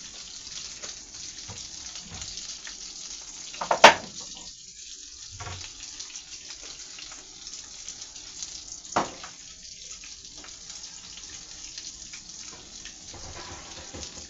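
Chicken nuggets sizzling in butter and hot sauce in a frying pan, a steady crackling hiss. Two sharp knocks, the louder about four seconds in and another about nine seconds in.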